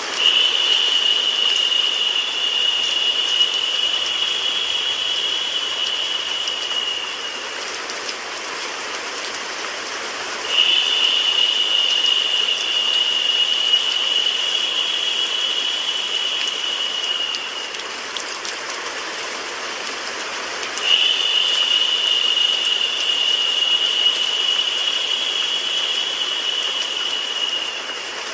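Steady hiss of rain sound mixed with white noise. A higher, narrower hiss rises over it three times, each lasting about seven seconds and starting roughly ten seconds apart.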